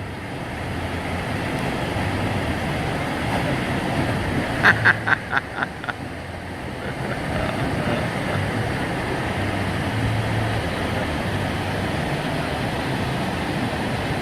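Steady rushing outdoor noise, with a quick run of about six sharp clicks about five seconds in.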